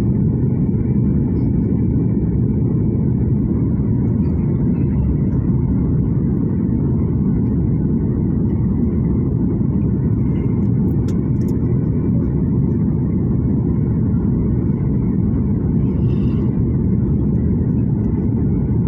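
Steady low rumble of an airliner landing, with no change in level or pitch.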